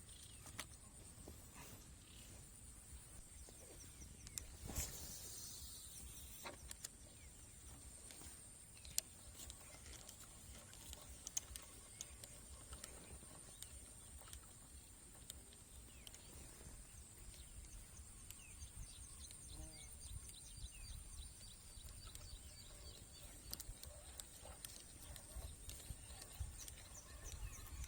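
Faint rural outdoor ambience: a steady high-pitched insect drone, with scattered sharp clicks and taps.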